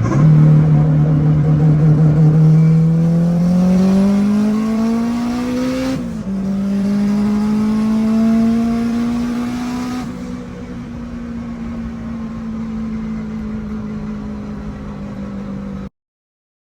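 Boosted Honda K20 four-cylinder engine accelerating hard in a third-gear pull, its pitch rising steadily for about six seconds, dropping sharply at a quick upshift, then climbing again before the throttle eases about ten seconds in and it runs on steady.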